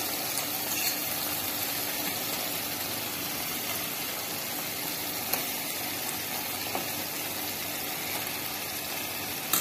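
Tomato-onion masala sizzling gently in oil in a kadai, a steady hiss, with a few faint soft taps as whole boiled eggs are set into the pan.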